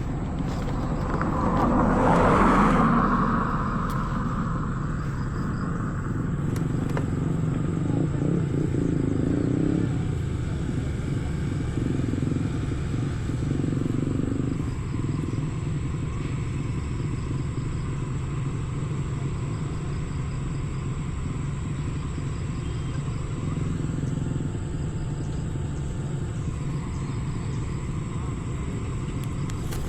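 QJMotor SRK600 engine running through a Pure Austin Racing GP1R exhaust while the bike is ridden, a steady rumble with a louder rush of sound about two seconds in.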